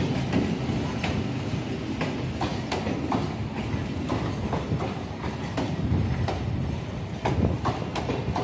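Eastern Railway EMU local train coaches rolling past close by: a steady low rumble with frequent sharp, irregular clacks from the wheels on the track.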